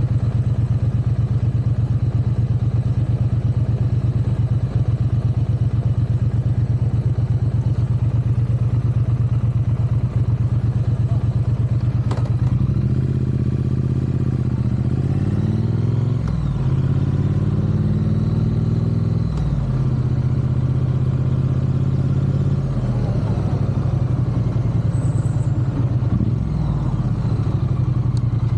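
Triumph parallel-twin motorcycle engine running at a steady note for about twelve seconds, then revving up and down as the bike pulls away and rides on, its pitch rising and falling repeatedly.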